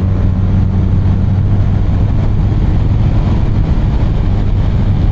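BMW R 1250 RT's boxer twin engine running at a steady cruise, under the rush of riding wind. The engine's steady hum blurs into the wind noise about two seconds in.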